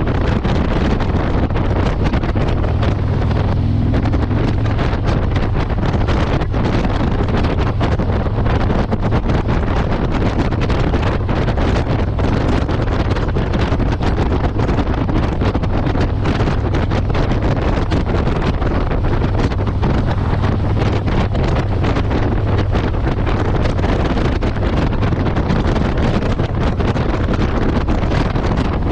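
Motorcycle engine running steadily at riding speed, under heavy wind rushing over the microphone.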